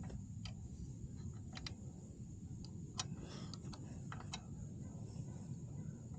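A few light, irregular clicks and ticks of a hand wrench working the kickstand switch's 8 mm bolt on a motorcycle.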